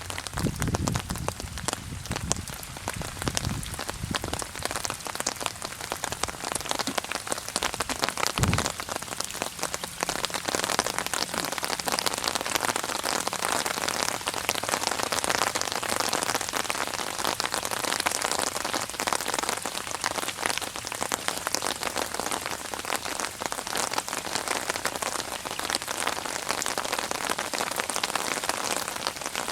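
Rain falling on a surface, a dense steady patter of many drops, with a brief low thump about eight seconds in and a fuller, heavier patter from about ten seconds on.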